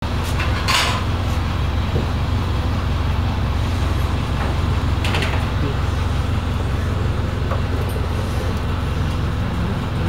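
Small passenger ferry's diesel engine running with a steady low rumble, with two brief hissing rushes of noise about a second in and again about five seconds in.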